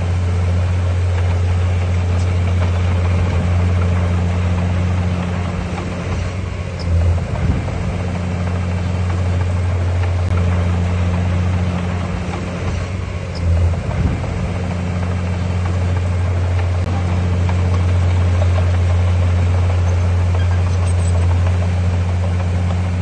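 Heavy diesel engine of earthmoving machinery running steadily with a deep, even drone, wavering briefly twice as the load changes.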